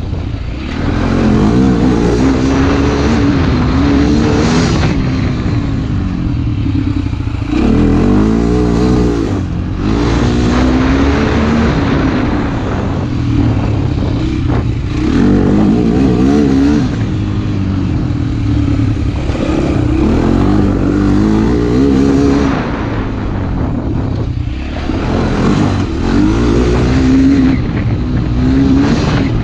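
Motorcycle engine under way, revving up and shifting through the gears several times: the pitch climbs and drops again and again. A heavy low wind rumble lies under it.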